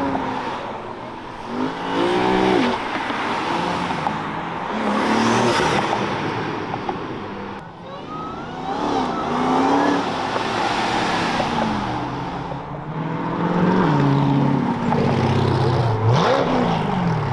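Several cars accelerating hard past one after another, engines revving up and dropping back repeatedly, with the loudest rev near the end.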